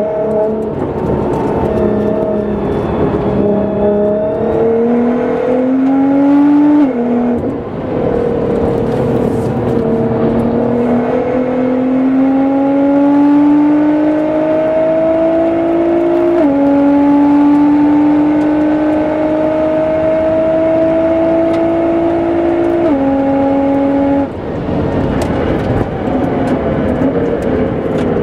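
Nissan GT-R R35's twin-turbo V6, tuned to about 700 hp, pulling hard at full throttle on track: its pitch climbs steadily and drops back at each upshift, three times. Near the end the throttle is lifted and the pitch falls away as the car slows.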